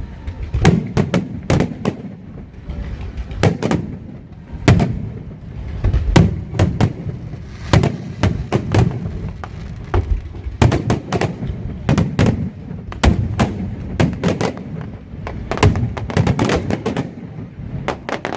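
Fireworks exploding in a rapid, irregular barrage of sharp bangs with booming low ends, several a second, stopping abruptly near the end.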